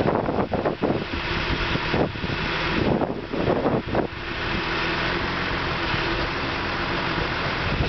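Skid steer engine running steadily, with gusts of wind buffeting the microphone during the first four seconds.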